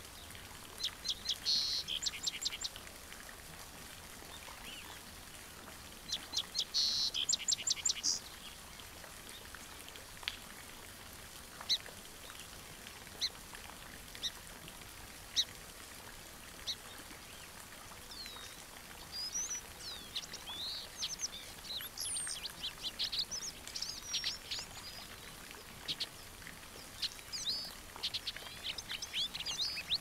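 Birds calling: two bursts of rapid, repeated high notes in the first eight seconds, then scattered single chirps, and from about two-thirds of the way in a busy run of short whistled notes that rise and fall.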